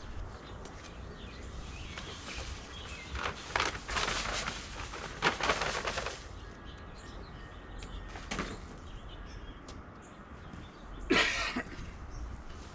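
Polymeric sand being spread and swept over concrete pavers with a broom: several separate scraping, hissing strokes, the loudest one near the end.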